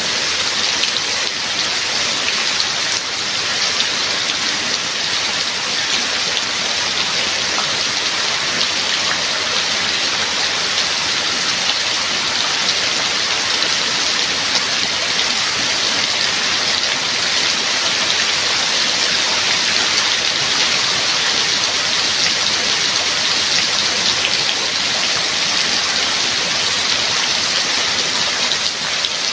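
Steady heavy rainfall, an even hiss of rain with no let-up and no thunder.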